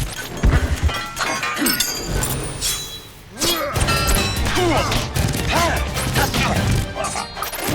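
Action-film soundtrack: orchestral fight music over a string of blows, crashes and smashing impacts.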